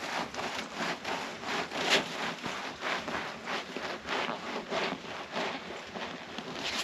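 Footsteps in snow, about two steps a second, each one a short crunch of uneven strength.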